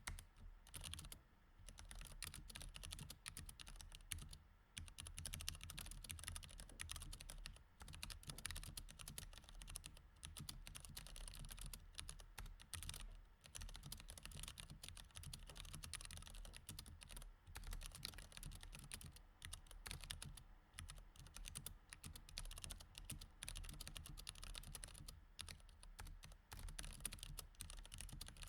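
Mechanical keyboard with Cherry MX Red switches being typed on in fast, continuous runs of keystrokes, broken by a few brief pauses of about half a second.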